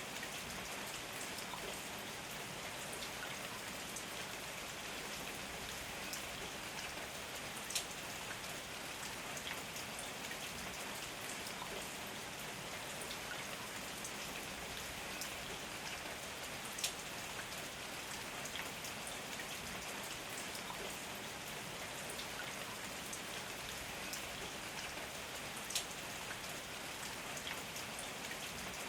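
Steady rain falling, a dense even hiss of drops. Three single louder drop hits land close by, spread through the stretch.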